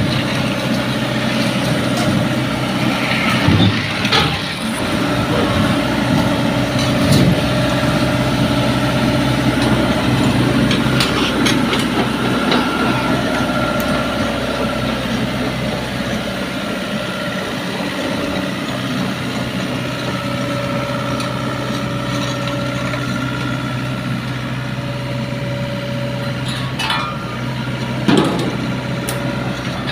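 A diesel engine running steadily, with a few clanks and knocks now and then.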